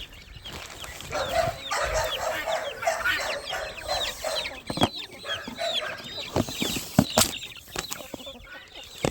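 Chickens clucking in quick repeated notes while young birds keep up high, downward-sliding peeps, with a few sharp knocks about five and seven seconds in.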